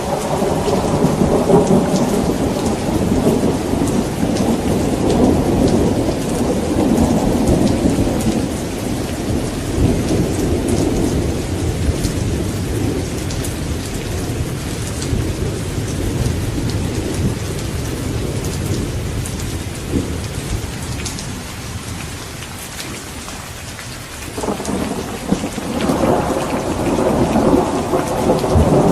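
Steady heavy rain with rolling thunder. The rumble fades away over the first twenty seconds, and a fresh roll of thunder swells in near the end.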